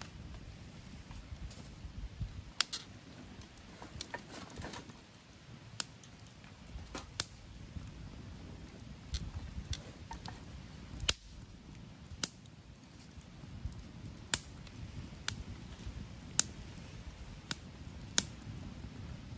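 Wood campfire crackling: sharp, irregular pops about once a second over a low steady rumble.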